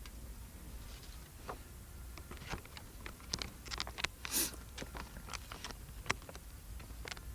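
Light, scattered clicks and taps of utensils and containers being handled while preparing and eating mizu-namasu, with one short rushing sound a little past halfway.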